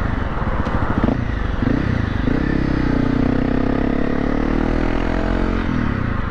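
Honda CRF dirt bike engine running under way; its pitch climbs about two seconds in, holds steady, and eases off near the end.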